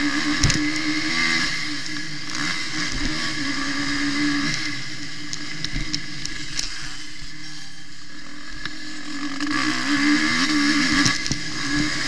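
Suzuki RM-Z250 four-stroke single-cylinder motocross engine revving hard through the gears, heard on board the bike. The revs ease off around seven seconds and climb again near ten seconds, with a sharp knock about half a second in.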